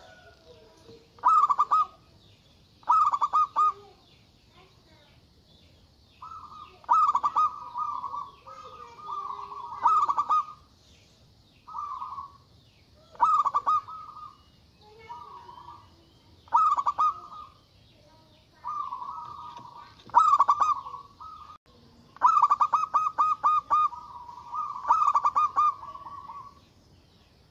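Zebra dove (perkutut) cooing in repeated phrases, each a quick run of pulsing coos, one phrase every one to three seconds; the longest phrase comes near the end.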